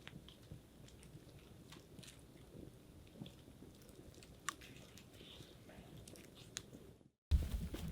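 Faint, scattered small clicks and crackles over a low background. About seven seconds in the sound cuts out for a moment, then much louder knocks and rustling start.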